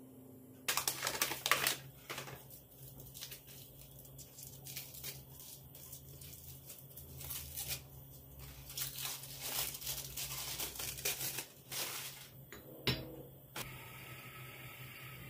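Irregular crinkling and rustling, like something crinkly being handled, with a sharp click near the end.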